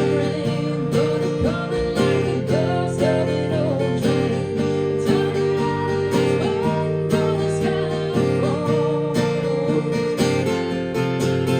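Live country song played by a band: strummed acoustic guitar with a steady beat under a melodic lead line that bends in pitch, an instrumental passage between sung lines.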